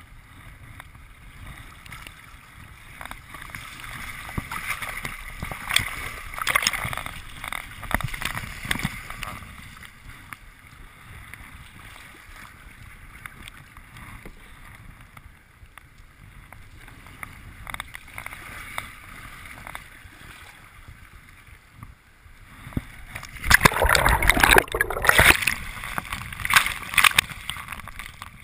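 Kayak paddling on open water: paddle strokes splashing and water washing against the hull, with a louder, denser stretch of splashing near the end.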